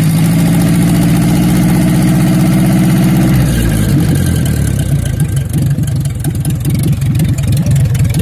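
Ford N-series tractor's four-cylinder flathead engine running steadily, then slowing about three seconds in to a rougher, uneven idle. A valve tick is still heard after the valves were adjusted.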